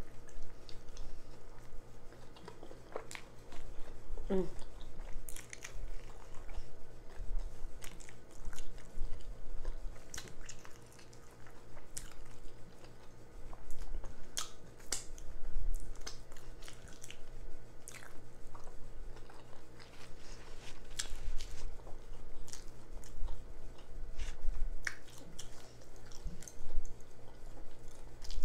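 A person chewing and biting into a jalapeño cheddar sausage in a bun, with wet lip smacking and irregular mouth clicks.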